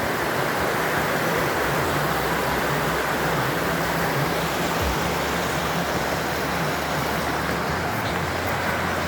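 Steady rushing of water from a waterfall and stream, even and unbroken.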